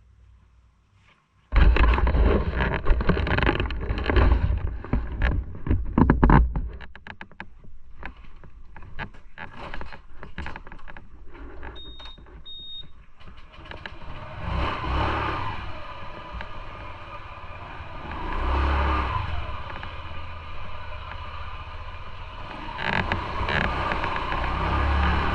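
Motorcycle ride getting under way: a loud rumble with knocking and clicking starts suddenly, then the engine runs and swells several times as it accelerates, with wind noise on the microphone.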